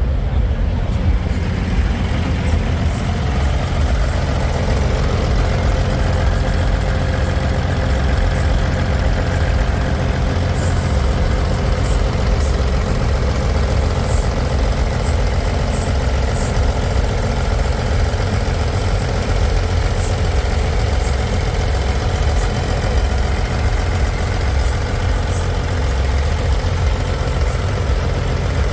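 Diesel semi-truck engine idling with a steady low rumble.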